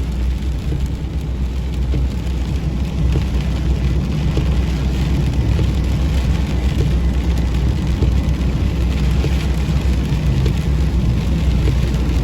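Combine harvester running steadily: a deep, even engine drone with a rushing hiss from the machinery over it.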